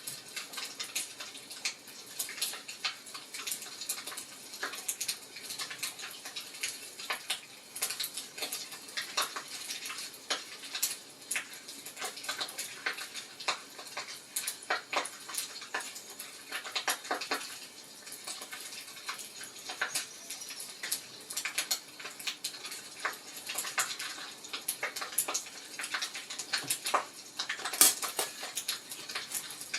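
Wood fire crackling steadily in a fireplace, with dense irregular pops and snaps and one louder pop near the end.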